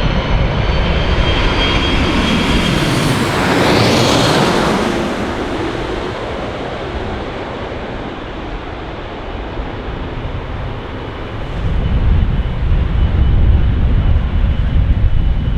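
Jet airliner passing low overhead: its engine noise and whine peak about four seconds in, then fall away as it recedes. A low rumble rises again near the end.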